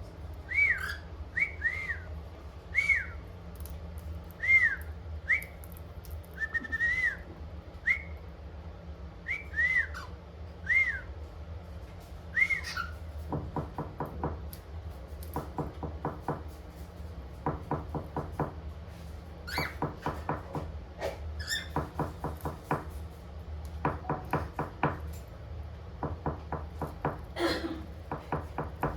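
Cockatiel whistling short notes that rise and fall, about one a second. About halfway through these give way to quick bursts of rapid ticking, with a few sweeping calls in between.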